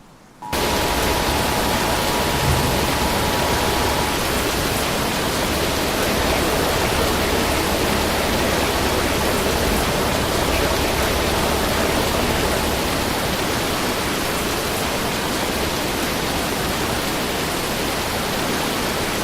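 Loud steady rush of storm wind and rain on the microphone, starting abruptly about half a second in, with a faint steady tone for the first few seconds.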